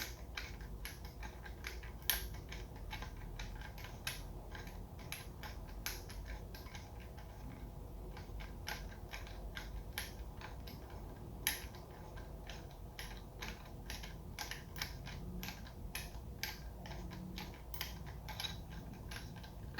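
Irregular light clicks and metallic clinks of hand tools and engine parts being worked while the intake-side camshaft timing gear and VANOS unit of a BMW N20 engine are taken off, with a few louder knocks.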